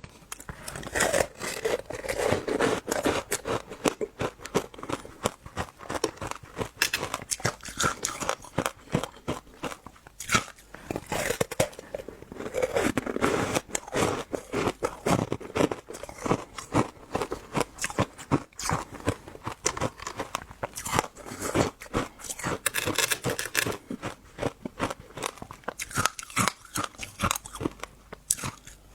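Close-up chewing and crunching of passion fruit, with many irregular crackly bites and crunches of its seeds.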